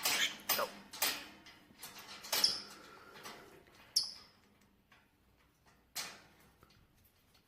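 An animal scrabbling and knocking about, with a string of short sharp knocks and scrapes and two brief high squeaks. It goes quieter about four seconds in, with one more knock about six seconds in.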